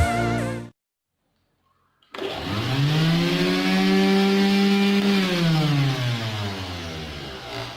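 Mixer grinder's electric motor, driving the home-made sander, starting about two seconds in and spinning up to a steady whine, then winding down with slowly falling pitch.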